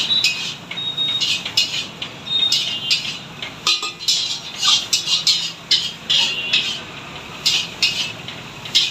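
Metal spatula scraping and clanging against a wok in quick, irregular strokes, two or three a second, as chicken noodles are stir-fried.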